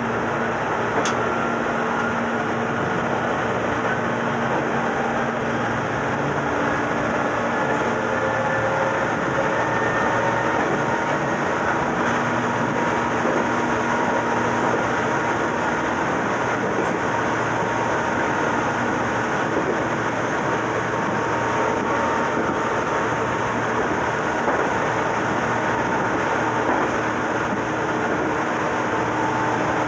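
Meitetsu 6000 series resistance-control electric train running at a steady pace, heard from on board: even wheel-and-rail running noise with a faint steady whine.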